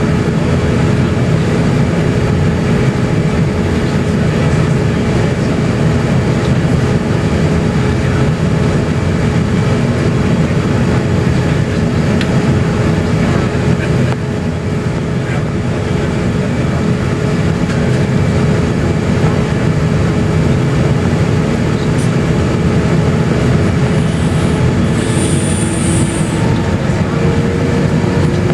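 Steady cabin noise of an Airbus A350-900 taxiing, its Rolls-Royce Trent XWB engines at idle: a constant rumble with a steady hum running through it. A brief high whine comes in about 25 seconds in, and a faint tone rises slightly near the end.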